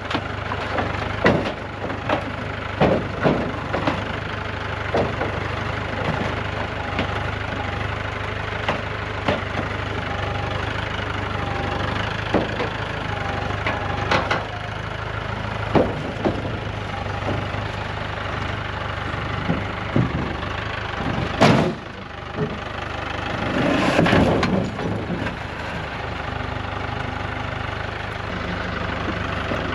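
An engine running steadily at idle, with scattered sharp clanks and knocks of metal on metal, and a louder swell lasting about a second near the end.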